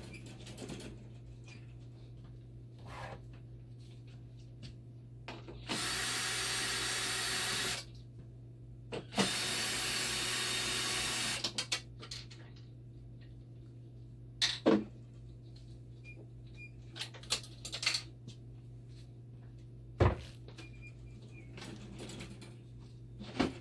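A handheld power tool runs twice, each time for about two seconds, with a steady even sound. Later come scattered clicks and knocks of hardware being handled, over a steady low machine hum.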